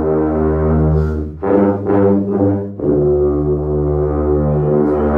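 Marching band brass playing loud sustained chords with a strong low brass bass; a short figure of shorter notes about a second and a half in, then a long held chord from about three seconds in.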